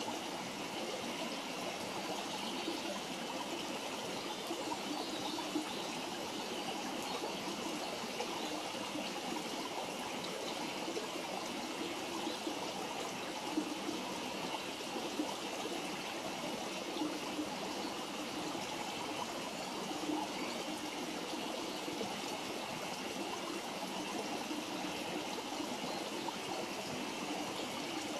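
Wood campfire burning with a steady hiss and a handful of sharp crackles and pops.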